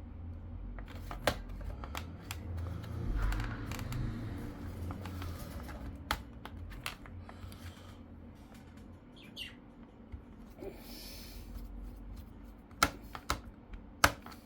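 Plastic laptop case parts being handled and fitted back together: scattered sharp clicks and knocks over low handling rumble, with a cluster of louder clicks near the end.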